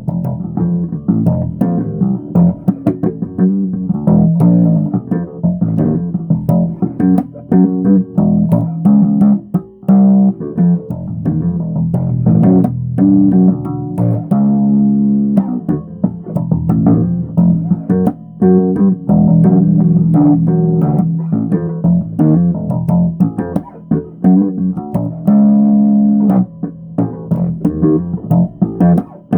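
Bass guitar being played: a steady run of plucked notes and phrases.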